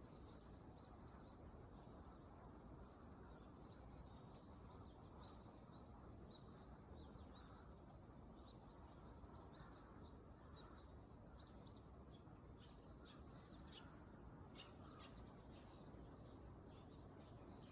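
Faint birdsong: small birds chirping with short high calls and a few quick trills, busiest toward the end, over a steady low hiss.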